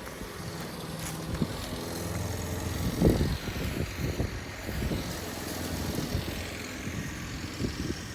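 Lawn mower engine running steadily, with wind gusting against the microphone, strongest about three seconds in.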